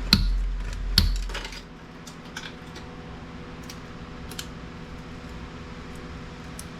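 Ferrite beads and small plastic pieces stripped from a printer's ribbon cable clicking and clattering as they are handled and dropped into sorting piles. There are two sharp clicks in the first second, then scattered fainter clicks, over a steady low hum.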